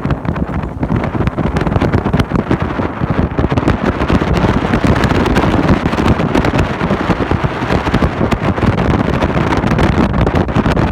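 Wind buffeting the microphone aboard a motorboat under way, over a steady rush of engine and water noise.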